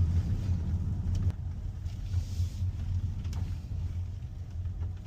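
Low, steady rumble of a car rolling slowly, with a few faint ticks.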